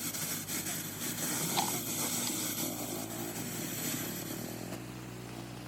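Caterpillar 3306 inline six-cylinder diesel engine running steadily.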